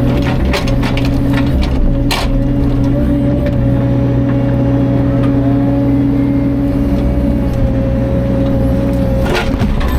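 A compact excavator's diesel engine running steadily under work, with a few sharp knocks about 2 s in and near the end.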